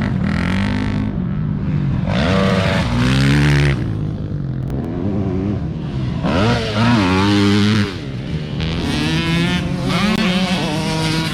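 Dirt bike engines revving hard, the pitch climbing and dropping with throttle and gear changes, in three loud spells.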